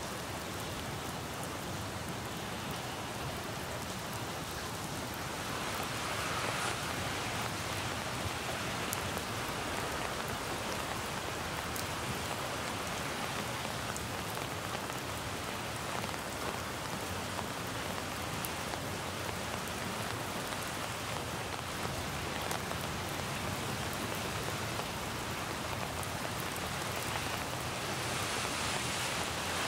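Steady rain falling on wet foliage and pavement, with scattered single drop ticks. It swells a little about six seconds in and again near the end.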